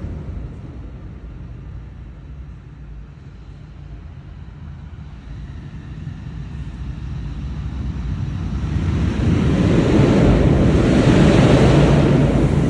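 Royal Enfield Interceptor 650's 648 cc parallel-twin engine running through a Motowings Raptor aftermarket exhaust. The exhaust note fades for the first few seconds, then grows steadily louder to its loudest near the end, with wind noise on the microphone.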